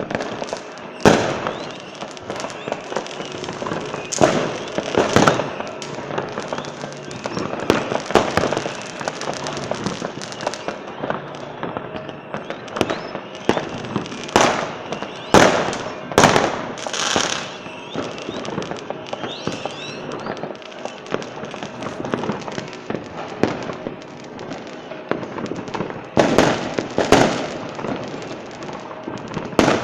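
Fireworks display: aerial shells bursting with repeated sharp bangs every few seconds over a continuous crackle of smaller reports.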